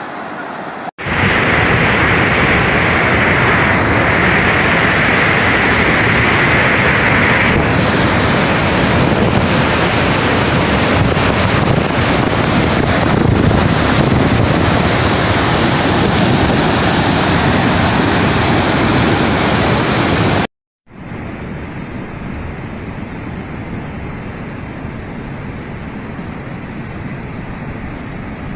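Floodwater rushing in a torrent after heavy rain: a loud, steady rush of water. It breaks off twice for an instant, about a second in and again near 20 seconds, returning quieter the second time.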